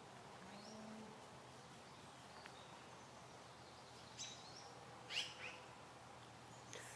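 Near silence, with a few faint bird chirps about four and five seconds in.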